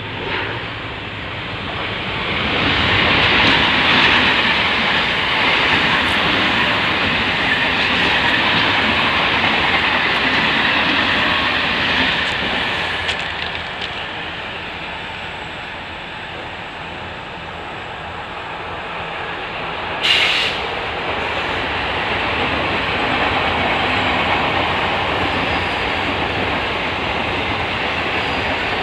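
Mumbai suburban EMU local train running past, a steady rumble of wheels on rail with some clatter over the rail joints. A brief sharp noise is heard about two-thirds of the way through.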